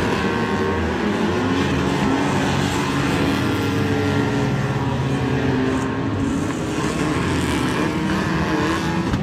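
Several banger racing cars' engines revving hard at once, each at its own pitch, rising and falling as the cars race and slide round the oval.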